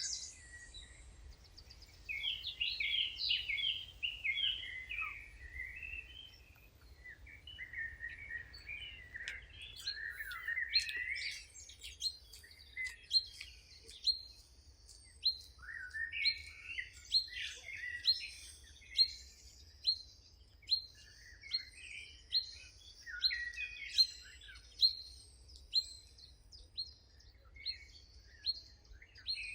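Wild songbirds singing in chorus, with varied warbling and chirping phrases. Partway through, one bird starts a sharp, high call that repeats about once a second over the song.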